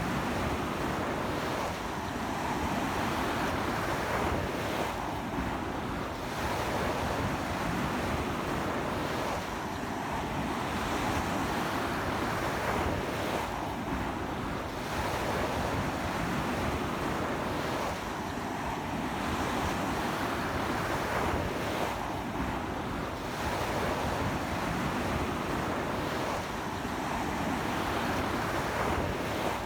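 Strong ocean surf breaking continuously on a beach, a dense rushing wash that swells and eases about every four seconds, with sea wind blowing.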